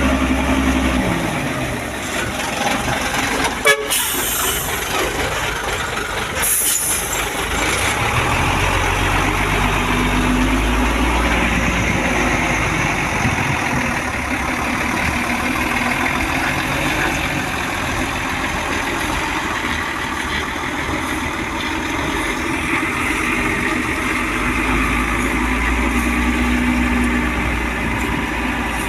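Heavy truck engine running steadily, with a sharp click about four seconds in and a short hiss a couple of seconds later.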